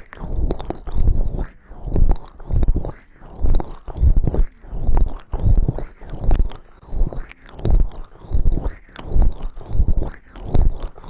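Close-miked ASMR trigger sound, a rhythmic stroke against the microphone repeated about one and a half times a second, heavy in the low end.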